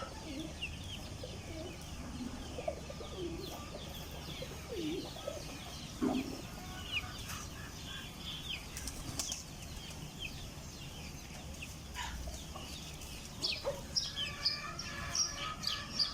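Domestic chicks peeping, with a mother hen giving a few low clucks; the peeping gets busier near the end.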